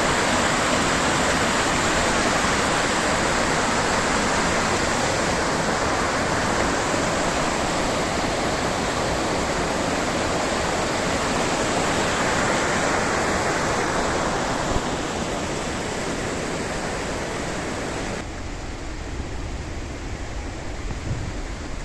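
Mountain river water flowing in a steady rush. Near the end the sound drops suddenly to a lower, duller level.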